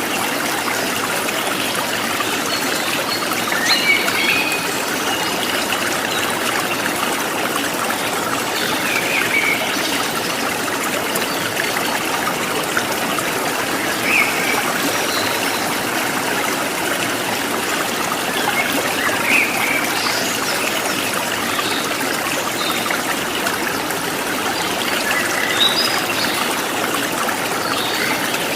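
Running stream water trickling steadily, with brief bird chirps every few seconds.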